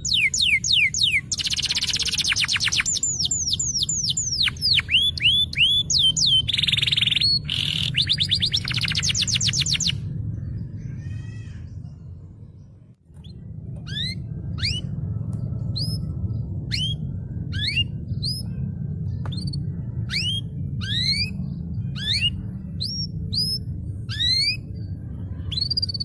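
Canary in full song: rapid rolling trills and quick falling sweeps for about ten seconds, fading out around the middle. Then a run of separate short rising chirps, about two a second, over a steady low hum.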